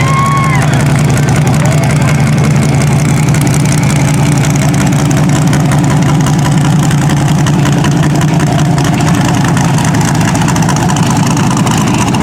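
Mud bog truck's engine running steadily and loudly, a constant low drone without clear revving.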